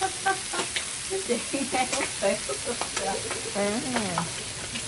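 Hot oil sizzling steadily as fish fry in a pan, with scattered small pops and clicks.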